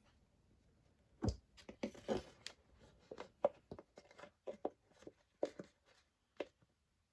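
Irregular clicks and knocks, with a brief rustle about two seconds in, from hands and tools working on a 50cc bike's fuel line to check whether fuel is reaching the carburettor.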